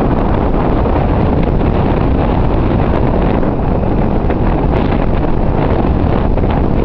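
Wind blasting the microphone on a moving boat: a steady, loud, low rumbling noise that masks any engine or water sound.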